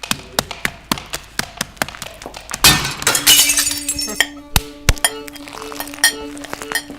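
A fast run of sharp clicks and knocks, then a loud crash about three seconds in with clinking and ringing after it. A steady tone with a regular beeping over it follows.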